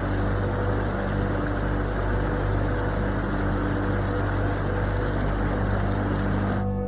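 Steady rushing noise over a low, sustained ambient music drone. The rushing cuts off suddenly near the end, leaving the soft new-age drone on its own.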